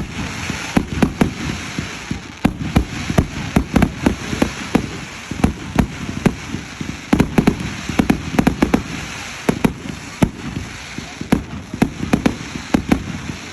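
Fireworks going off in a rapid, irregular barrage of sharp bangs and pops, many in quick clusters, over a continuous crackling hiss.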